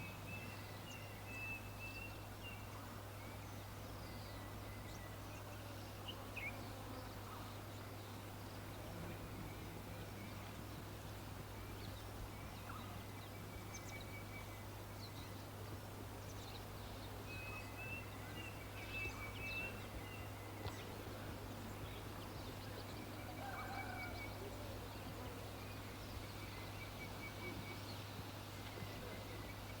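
Wild birds singing: one bird repeats a short, high trilled phrase every few seconds while others add scattered high chirps, with a lower call a little after the middle. A steady low hum runs underneath.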